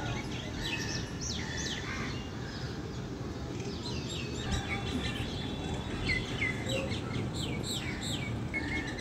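Small birds chirping in quick series of short, downward-sweeping calls: one flurry in the first two seconds and another from about four seconds in to near the end. Underneath runs a steady low background rumble.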